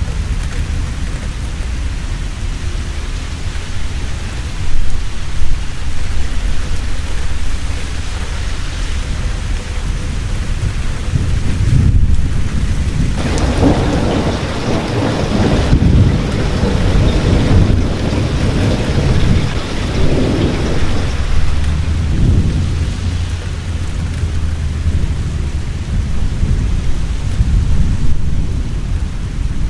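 Heavy rain falling steadily, with thunder rumbling under it. The thunder swells into a long rolling peal from about thirteen seconds in and dies back after about twenty-two seconds.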